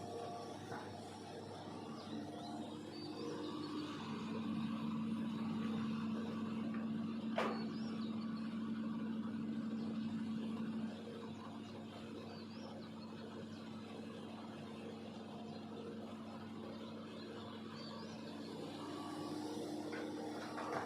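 Hitachi ZX200-5G long-arm excavator's diesel engine running, rising in load and level for about seven seconds from around four seconds in, then settling back. A single sharp knock about seven seconds in.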